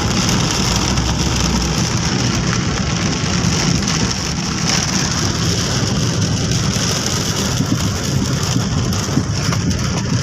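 Heavy rain pouring steadily, a dense even hiss over a low rumble.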